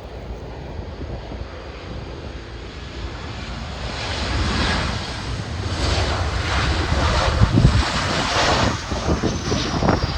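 Jet airliner's engines swelling into a loud rushing noise as the plane passes close by, with a faint falling whine near the end. Wind buffets the microphone.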